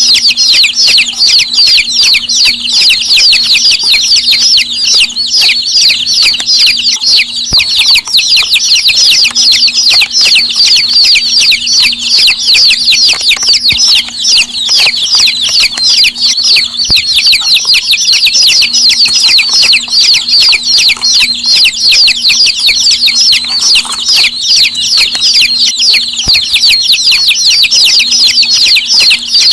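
A crowd of chicks peeping nonstop, with many short, high calls overlapping into a dense chorus. A faint steady low hum runs underneath.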